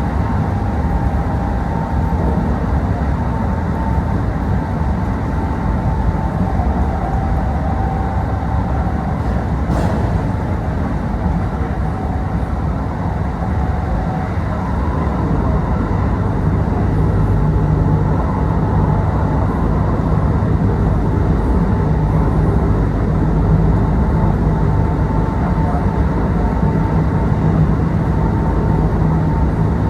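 Interior running sound of a Kintetsu Osaka Line local electric train under way: a steady rumble of wheels on rail with a faint whine, and a single sharp click about ten seconds in.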